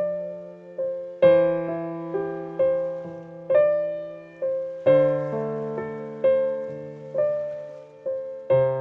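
Slow, gentle piano music: single notes and chords struck about once a second, each ringing and fading before the next.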